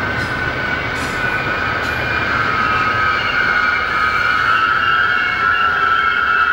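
A train running past with a steady high-pitched squeal from the wheels over the rumble of the wheels on the rails, growing a little louder toward the end.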